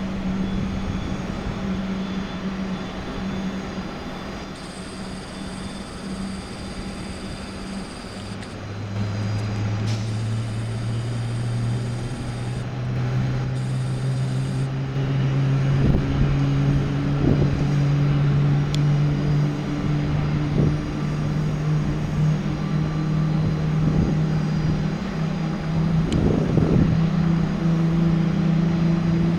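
Boeing 777-200ER's GE90 turbofan engine running, a low hum that climbs slowly and steadily in pitch from about eight seconds in as the engine spools up. A high hiss comes and goes in the first half.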